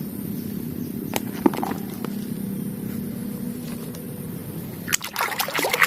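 Water trickling and sloshing over a muddy plastic toy as it is washed, with a few light knocks; the splashing gets louder and busier near the end.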